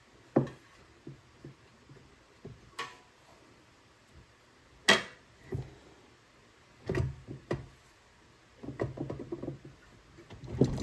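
Scattered knocks and clinks of the engine's oil pan cover and parts being handled and fitted onto the crankcase, with the loudest knock about five seconds in and light rattling near the end.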